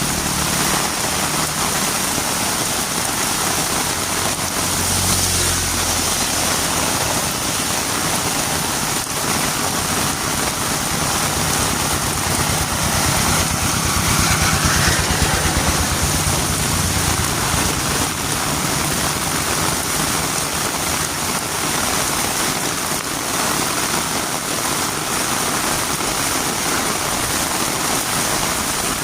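Heavy rain falling steadily on a road, with a motor vehicle's engine passing close by, once near the start and again louder around the middle.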